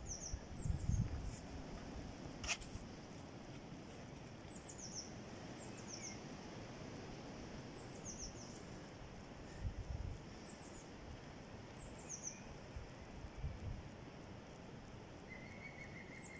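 Woodland outdoor ambience with a small songbird singing: a short, high phrase of two or three quick falling notes, repeated every second or two. A few low bumps on the microphone come near the start and again in the middle.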